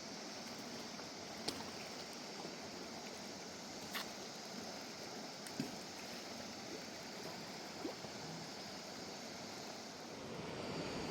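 Steady rushing of a fast mountain river flowing over rocks, with four short sharp clicks or knocks scattered through it.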